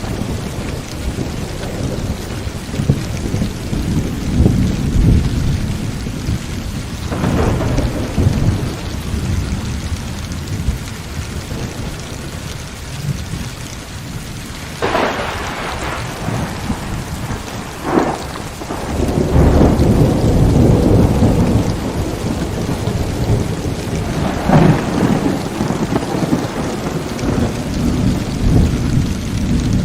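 Heavy rain falling steadily under continuous rumbling thunder, with several sharp thunder cracks spread through and a long, loud roll of thunder a little past the middle.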